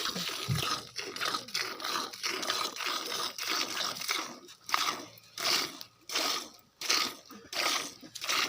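Hand milking a cow: streams of milk squirting from the teats into a pail in a steady rhythm, a short hissing spurt about two or three times a second.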